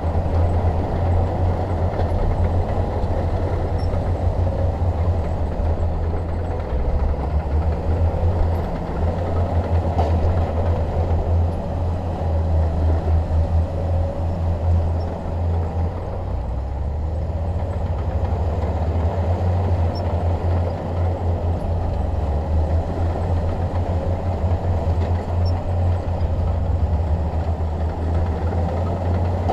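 Heavy diesel engine of a Shantui DH17 bulldozer running steadily, with a low, deep drone that eases slightly about halfway through.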